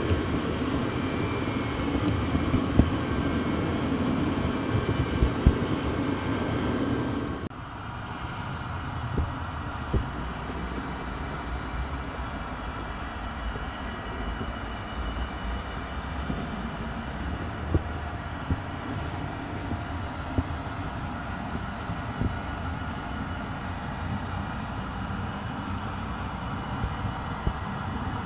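A train running, a steady rumble with occasional sharp clicks and knocks. About seven seconds in the low rumble drops off suddenly to a quieter steady noise.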